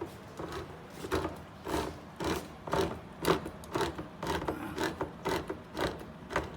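Hand-cranked can opener turning around a can of coconut milk: a regular ratcheting click, about three clicks a second.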